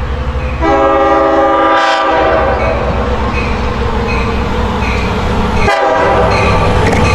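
Long Island Rail Road train passing close by, its wheels clicking in a steady rhythm over the rail joints. The horn sounds about half a second in and holds for roughly two seconds, then the train keeps rumbling past.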